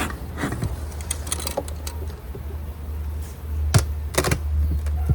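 A wooden beehive being opened and worked: scattered clicks and knocks of the lid and frames being handled, two sharper knocks near the end, over a steady low rumble.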